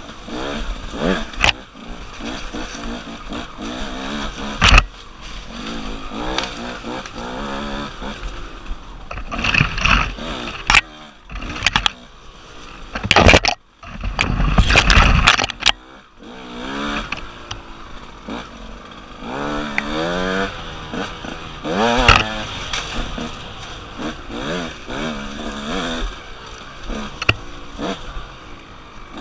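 KTM 150 two-stroke dirt bike engine revving up and down over and over as it is ridden along a trail, with several sharp knocks and a loud burst of noise about halfway through.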